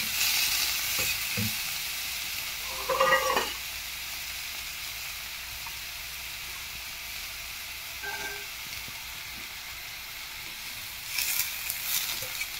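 Soaked kurdai crumbs and onion sizzling in oil on a flat iron tawa, stirred with a metal spatula that scrapes the pan, more strongly near the start and again near the end. A brief pitched sound rises above the sizzle about three seconds in.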